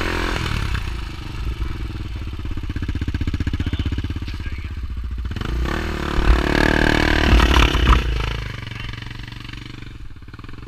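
Off-road vehicle engine running, revved up hard for a couple of seconds past the middle, then easing back to a lower, quieter run.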